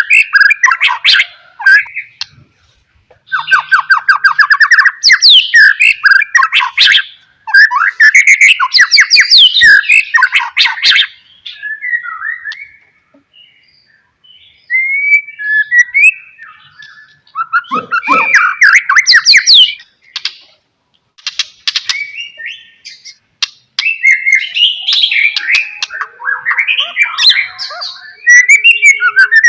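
White-rumped shama (murai batu) singing in full voice: loud, rapid phrases of sweeping whistles, trills and harsh chatter, each lasting one to a few seconds, with short pauses between them.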